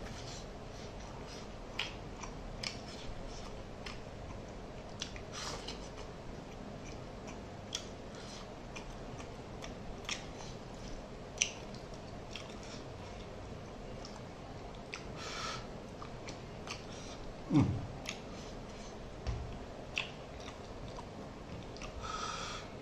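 Close-miked chewing of fish curry and rice, with scattered wet mouth clicks and lip smacks, and one louder short low sound about three-quarters of the way through.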